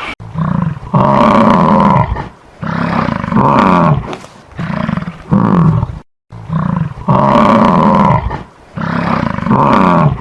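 A large animal giving a series of loud, long, low roaring calls, one to two seconds each with short breaks between. The same run of calls starts over about six seconds in.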